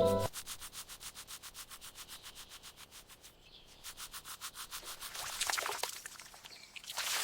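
Fast, even rubbing or scraping strokes, several a second, fading out a few seconds in. Louder, irregular scraping follows near the end.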